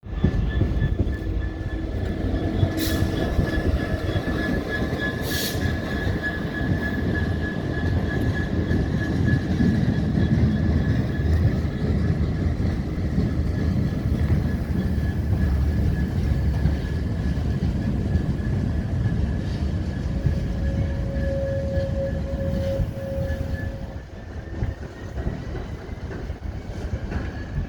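A train running on the rails with a heavy, continuous rumble and a steady high-pitched wheel squeal that holds for most of the time and rises slightly near the end.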